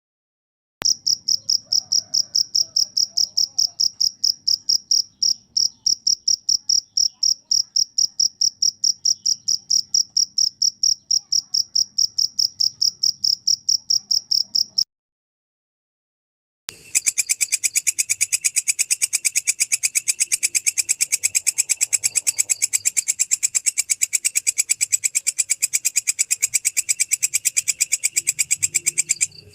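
Insect calls in two parts. First a cricket chirps in a steady run of even, high, pure-toned pulses. It stops, and after a pause of about two seconds a different insect, a belalang kecek katydid, calls with a harsher, fuller rapid pulsing that continues to the end.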